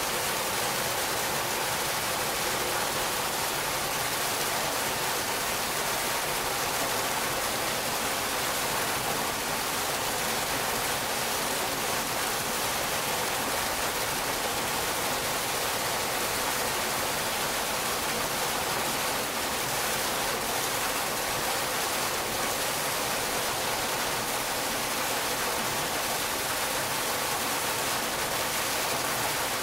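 Water splashing down a man-made fountain waterfall: a steady, unbroken rush.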